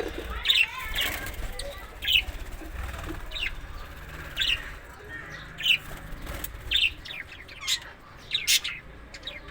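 Parrot giving a series of short, sharp chirps, roughly one or two a second.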